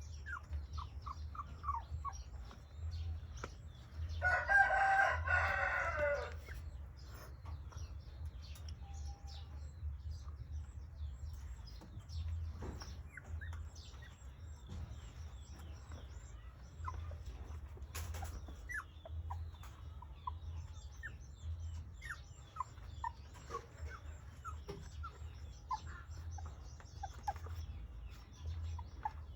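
Small birds chirping throughout, with one loud, drawn-out call about four seconds in that lasts about two seconds and falls in pitch at its end.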